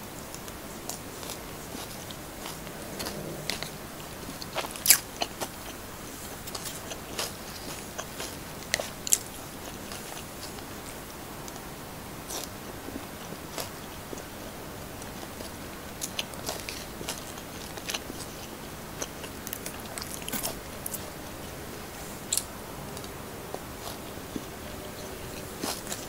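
A person chewing pieces of tofu with the mouth, with many sharp wet smacks and crunches, the loudest about five and nine seconds in.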